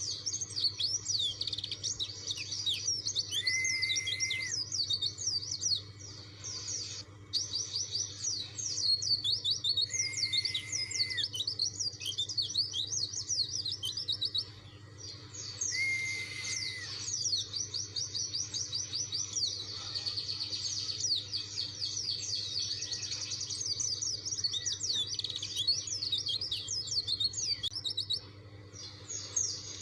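White-eye (pleci) singing a rapid, almost unbroken twittering song of high chirps, with a few short breaks. Three times a lower, held whistle lasting about a second sounds under it, over a faint steady low hum.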